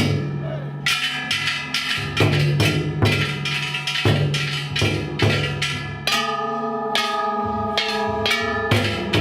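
Ishidori festival cart's large taiko drum and bronze kane gongs struck over and over, about two strikes a second. The gongs ring on between strikes. About two-thirds of the way through the strikes thin out and the gong ringing holds steadier.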